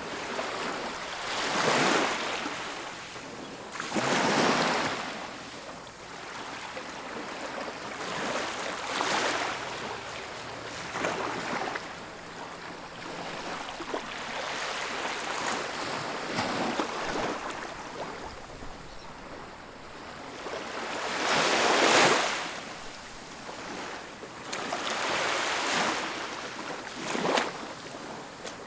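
Ocean surf breaking and washing up a beach: a steady rush with swells that peak every few seconds, the strongest near the end.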